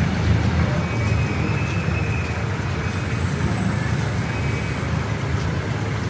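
Street traffic: vehicle engines running with a steady low rumble, with a couple of faint high squeals around the middle.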